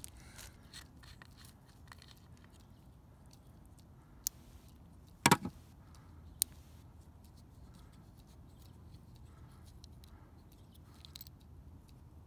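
Small parts of a backflow preventer's check valve being handled: faint scrapes and taps, a sharp click about four seconds in, a louder knock a second later and another click soon after.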